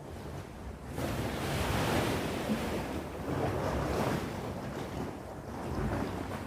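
Sea waves breaking and washing on the shore, with a surge of surf about a second in, then ebbing and swelling. Wind buffets the microphone.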